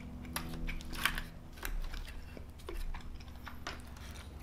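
Soft, wet chewing of mac and cheese close to the microphone: a scatter of small mouth clicks and smacks over a faint steady hum.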